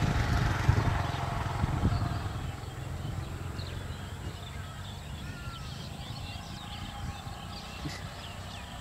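Low rumble of a passing train fading as it runs off into the distance over the first two or three seconds, then birds chirping over a faint remaining rumble.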